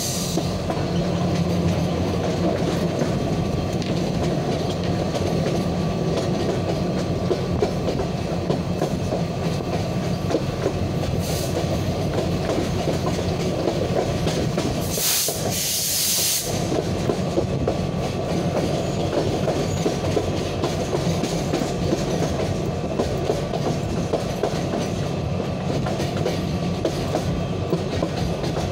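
Passenger train running at speed, heard from inside a coach: a steady rumble and clatter of wheels on the rails. A brief high hissing rush comes about halfway through.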